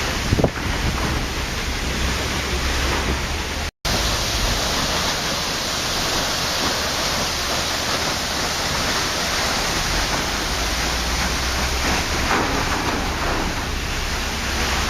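Waterfall: steady rushing of falling water, cutting out for an instant about four seconds in.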